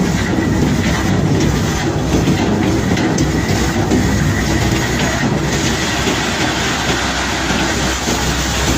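Barge-unloading machinery running with a continuous heavy rumble and rattling clatter of bulk cargo being moved.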